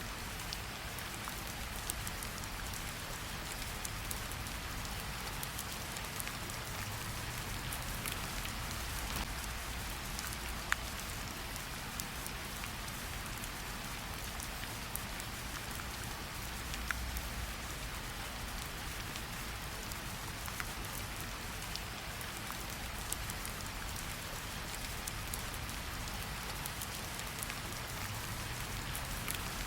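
Steady rain falling, with a few sharper drop hits, notably one about eleven seconds in and another near seventeen seconds, over a low rumble underneath.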